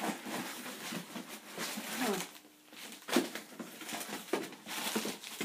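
Packaging rustling and crinkling, with light knocks of small parts, as a hand rummages through a cardboard box.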